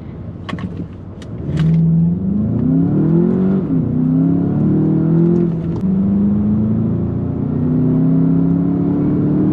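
2021 Volkswagen Jetta GLI's turbocharged 2.0-litre four-cylinder accelerating hard with the gearbox in manual mode. After a quieter second or so with a few clicks, the engine note rises and drops back at two upshifts about two seconds apart, then climbs in a longer pull in the next gear.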